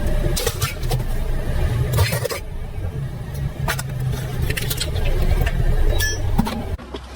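Car engine running low and steady, with several sharp cracks and crunches as the tyres crush objects beneath them. The engine sound cuts off suddenly near the end.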